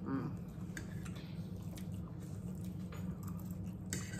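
Close chewing and wet mouth sounds of people eating, with scattered light taps of forks on plates, over a steady low hum.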